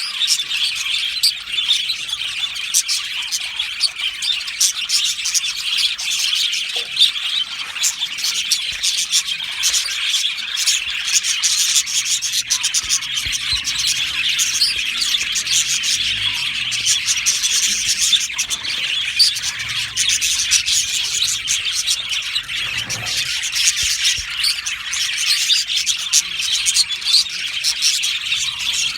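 A colony of budgerigars chirping and chattering without a break, many birds calling at once.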